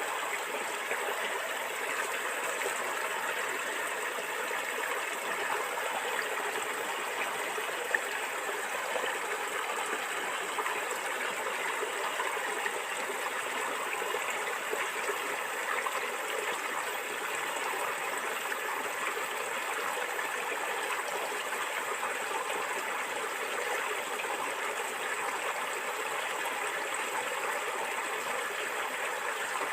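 A stream of water flowing and gurgling steadily over stones. One brief click comes about eight seconds in.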